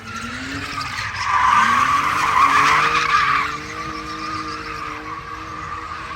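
A car drifting: its engine revving up and down while the tyres screech, the tyre squeal loudest from about a second in to three and a half seconds.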